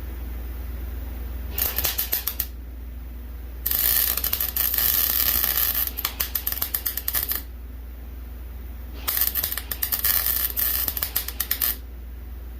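Electric arc welding on steel: three runs of crackling arc, a short one of about a second, then two longer ones of a few seconds each, over a steady low electrical hum.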